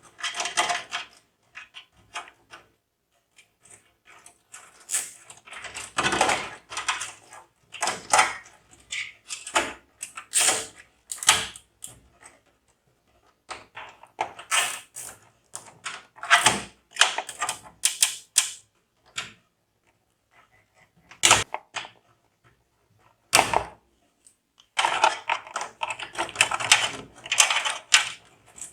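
Irregular clicking and rattling of PC hardware being handled and fitted, in short bursts with quiet gaps and a dense run of clicks near the end.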